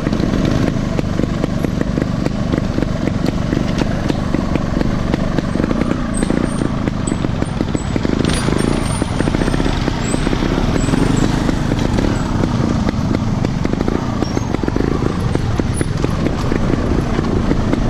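Vehicle engine running steadily, a dense rapid pulsing with most of its weight in the low end.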